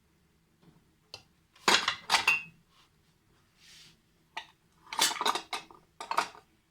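Metal kitchenware clattering and clinking in a few short bursts, the loudest about two seconds in and again around five to six seconds in.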